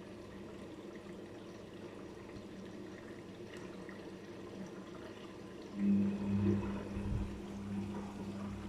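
Daewoo DWD-FT1013 washing machine in its rinse cycle: water running into the tub, then about six seconds in the machine's motor starts a steady hum over the water.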